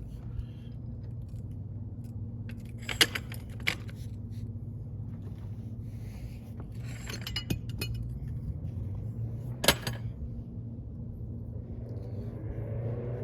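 Metal tools clinking and clanking against steel brake parts, with sharp metallic strikes about three seconds in, again just after, and a louder one near ten seconds, over a steady low hum.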